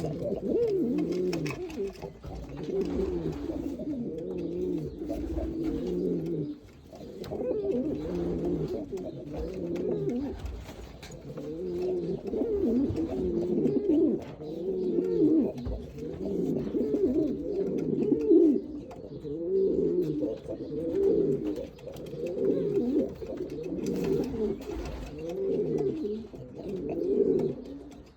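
Domestic pigeons cooing over and over, one coo after another, with overlapping calls.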